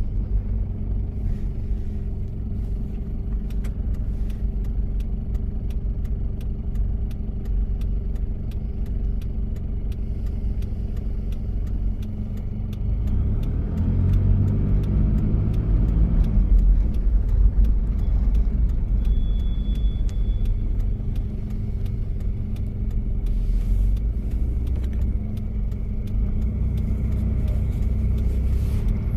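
A 1993 Toyota Prado's diesel engine running on the move under a steady low rumble. The engine note rises for a few seconds about halfway through, then settles back to a steady drone.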